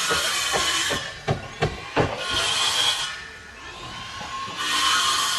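Paint sprayer hissing in three bursts of about a second each as the final coat goes onto the fascia boards, with a few sharp knocks in the first two seconds.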